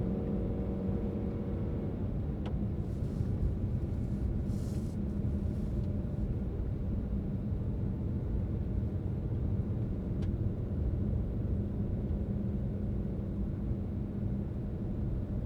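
A car driving steadily, with the low, even rumble of engine and tyres on the road. There are a couple of faint clicks, and a brief hiss about three to five seconds in.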